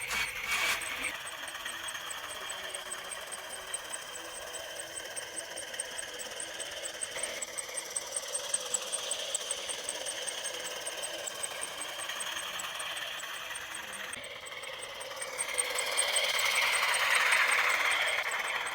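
A small motor running steadily with a fast, even ticking, growing louder near the end.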